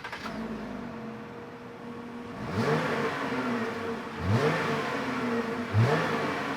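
2018 Jeep Wrangler JL's 3.6-litre V6 idling through a Magnaflow MF straight-through axle-back exhaust, blipped three times, each rev rising quickly and dropping back to idle.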